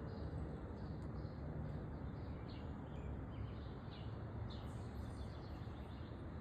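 Small wild songbirds chirping, many short high chirps scattered irregularly, over a steady low background rumble.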